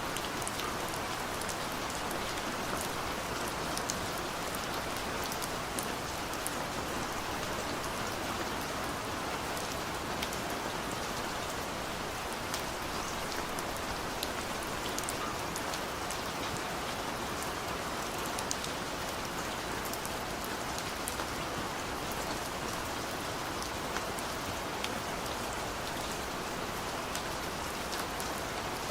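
Heavy rain pouring steadily, an even hiss with many small drop ticks.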